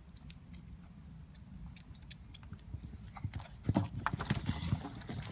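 A horse's hooves clip-clopping: irregular knocks over a low rumble, getting busier and louder after about three and a half seconds.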